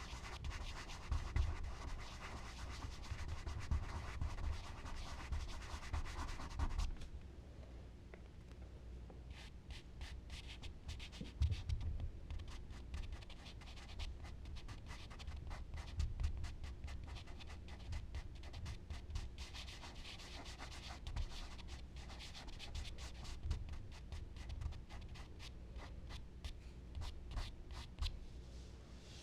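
Charcoal rubbing and scratching on paper as a drawing is worked. For about the first seven seconds it is one continuous rubbing, then it breaks into many short, separate strokes.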